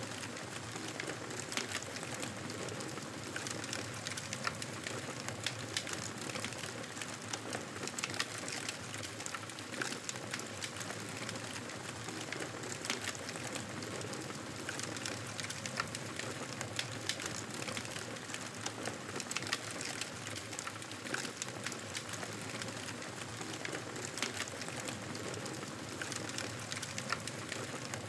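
Campfire burning: a steady hiss of flames with frequent sharp crackles and pops from the burning wood.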